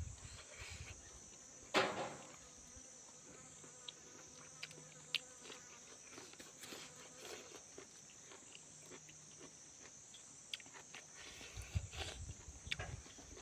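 Eating sounds of someone chewing and handling food, with scattered small clicks, a loud sharp knock about two seconds in and a run of low chewing thuds near the end, over a steady high-pitched hum.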